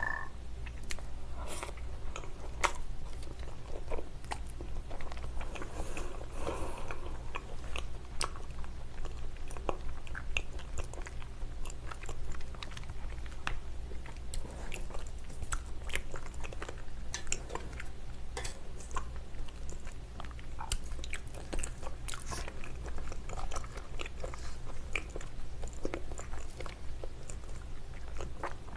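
Close-miked chewing of raw salmon and salad: many small wet mouth clicks and smacks with occasional crunches, over a steady low hum.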